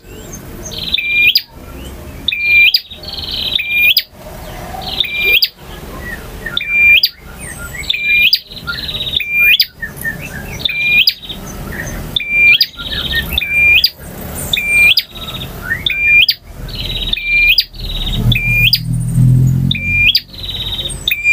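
Male bar-winged prinia singing, repeating the same short, high, sharp phrase about every second and a half.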